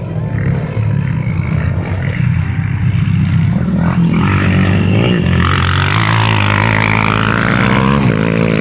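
Trail motorcycle engines running, the pitch rising and falling as the throttle is worked, growing louder from about four seconds in.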